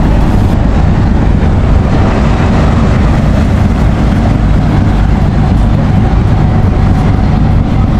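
A river ferry's engine runs steadily under a loud, even rushing noise.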